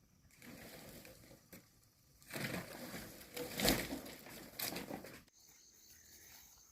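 Rustling and crunching with scattered sharp cracks, louder from about two seconds in, with the loudest crack near the middle, then stopping suddenly a little after five seconds.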